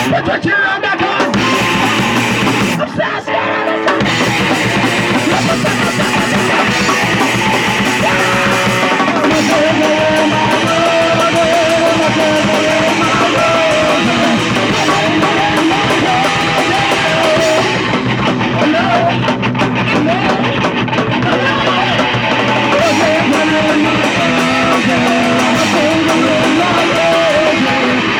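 A live punk rock band playing loud, with distorted electric guitar and a drum kit; the sound drops briefly about three seconds in, then carries on.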